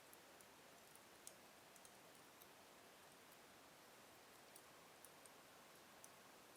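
Faint crackling of a slow-burning wood fire in a fireplace: scattered small, sharp pops over a low steady hiss, the sharpest about a second in.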